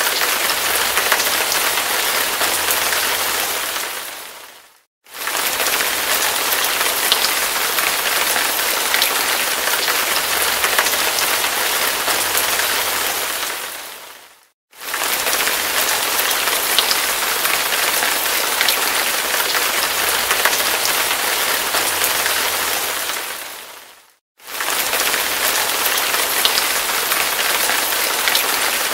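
Heavy rain falling steadily: a dense hiss with scattered drop ticks. Three times, about every ten seconds, it fades out over a few seconds to a moment of silence and comes straight back, the seams of a looped recording.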